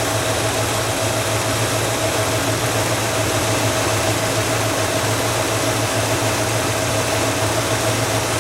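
1967 Cadillac Eldorado's 429 V8 idling steadily, with a steady whining tone over the engine note.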